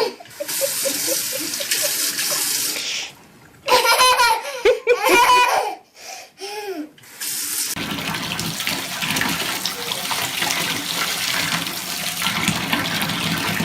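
Steady running or rushing water, broken for a few seconds in the middle by a voice laughing or calling out.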